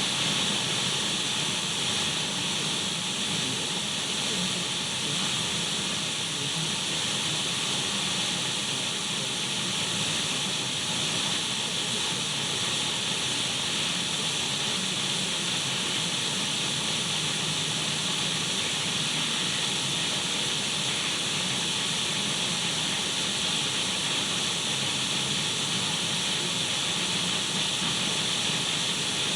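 Radio static: an untuned radio's hiss, steady and unchanging, brightest in the upper treble.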